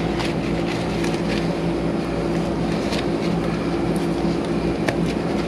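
Outdoor central air-conditioner condenser unit running with a steady hum from its compressor and fan. Scattered short crackles and scrapes come from old foam insulation being pulled off the copper refrigerant line.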